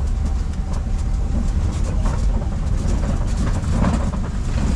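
Safari ride truck driving along: a steady low engine and road rumble with scattered rattles and knocks from the vehicle.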